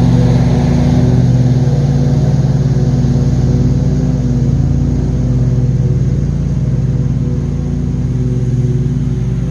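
John Deere QuikTrak stand-on mower's engine running steadily under load while mowing.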